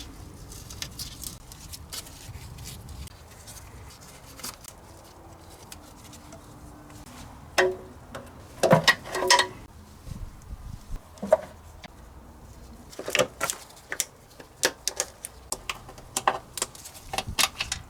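Irregular clicks, clinks and knocks of metal tools and parts being handled, with a cluster of louder knocks about halfway through and another run near the end.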